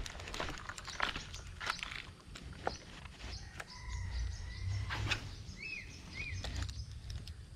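Outdoor ambience with scattered sharp clicks and rustles over a low rumble; about midway a held whistle, then two short rising-and-falling chirps from a bird.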